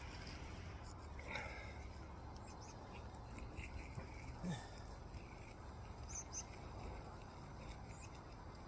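Faint outdoor background: a steady low rumble with a few brief, faint high chirps.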